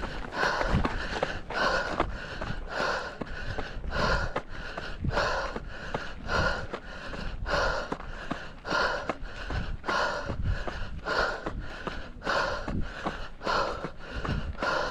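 A runner's hard, rhythmic breathing on a steep uphill trail run: quick, even breaths about one and a half a second. Low thuds and rumble underneath.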